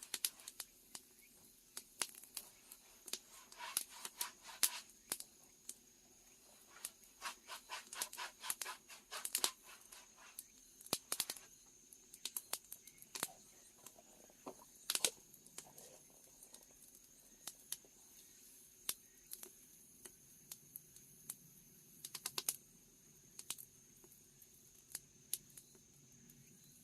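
Wood fire crackling in the firebox under an iron cauldron (gamasot), faint irregular snaps and pops, some in quick runs of several, as the cauldron heats up.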